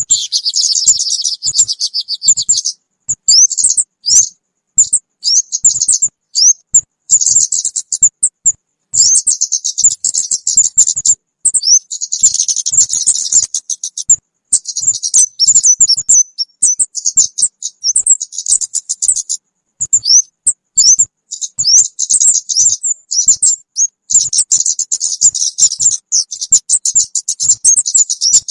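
Lure call of the kemade, a small songbird: rapid high-pitched chirps and trills in runs lasting from one to a few seconds, with short breaks between them.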